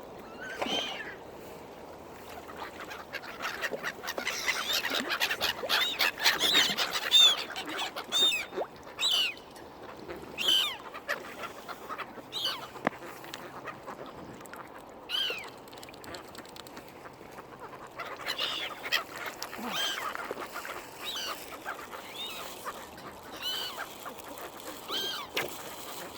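Gulls and ducks calling: many short, high, arched calls one after another, busiest in the first several seconds and then coming every second or two.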